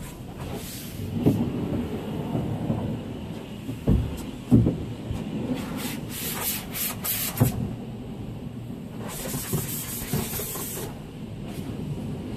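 Truck wash: pressure-washer spray hitting a semi truck, coming in bursts of hiss about six and nine seconds in, with a few knocks and thumps over a low rumble.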